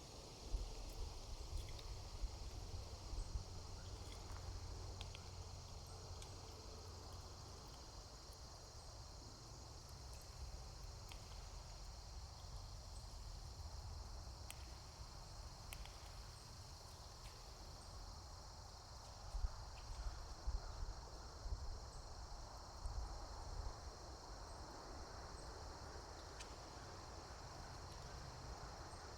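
A steady, high-pitched chorus of insects chirring, with a low rumble beneath and a few soft thumps near the start and again about two-thirds of the way through.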